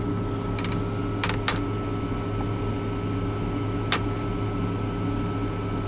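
Steady low mechanical hum in a truck cab, with a few light clicks and taps: two close together about a second in, and one about four seconds in.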